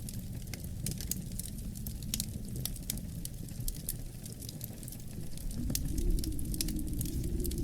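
Fire in a fireplace crackling, with many small irregular pops and snaps over a steady low rumble of the flames. The rumble grows a little louder about five and a half seconds in.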